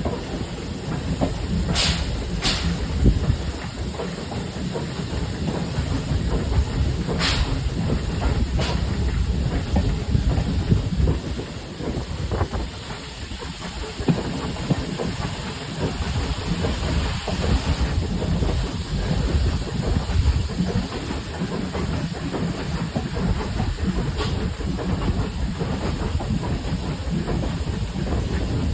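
Train ride behind a steam tank engine: a steady low rumble of the carriage's wheels running on the track, with a hiss of steam. Sharp clicks come twice about two seconds in, twice around seven to nine seconds in, and once near the end.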